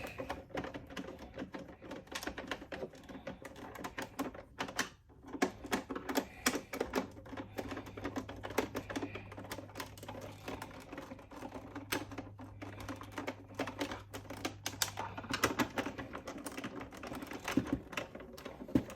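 Rapid, irregular clicking and tapping of a screwdriver and small plastic parts as screws are driven into a toy's plastic case, with a faint steady hum underneath.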